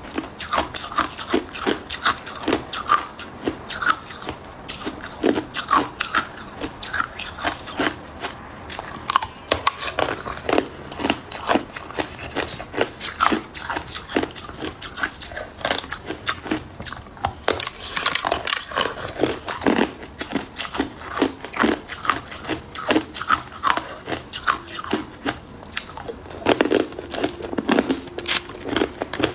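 Hard ice cubes being bitten and chewed close to the microphone: continuous irregular crunching and crackling, many sharp cracks a second.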